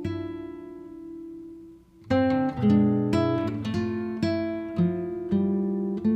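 Background music of a plucked acoustic guitar: one chord rings and fades, then about two seconds in a run of plucked notes and chords begins.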